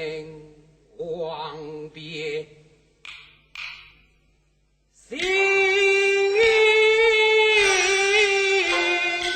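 Teochew opera singing: a few short, wavering sung phrases broken by pauses, then from about five seconds a long, high female vocal line with sustained notes.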